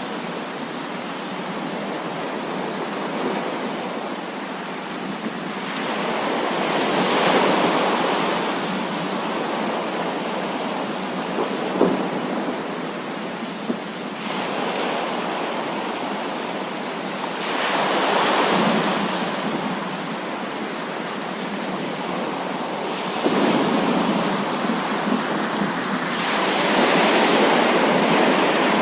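Heavy rain falling steadily, with three rolls of thunder that swell and fade, and two sharp cracks near the middle.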